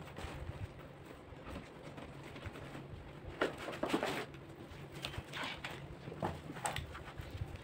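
Faint bird calls, a few short calls about halfway through and a couple more near the end, over a low steady hum.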